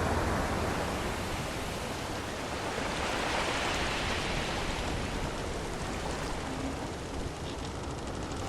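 Sea waves washing, a steady rushing noise that swells and hisses about three to four seconds in.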